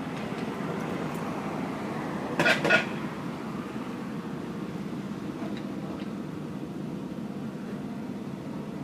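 Steady low mechanical rumble, like a running engine or machinery, with a short, louder double clatter about two and a half seconds in.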